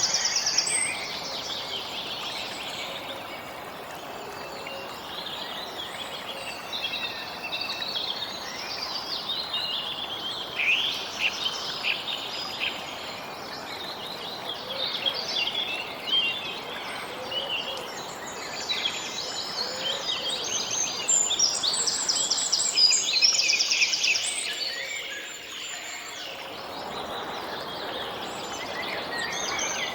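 Many birds chirping and trilling over a steady background hiss, which dips briefly near the end before returning.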